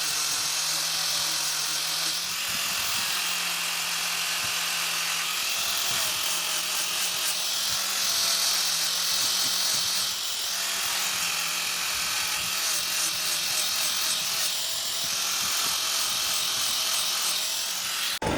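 Electric power tool motor running steadily under light load, with a high whir and slight wobbles in pitch, cutting off abruptly just before the end.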